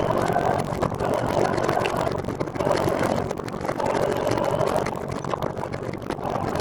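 Steady rolling and wind noise from riding a recumbent trike, swelling and easing every second or so.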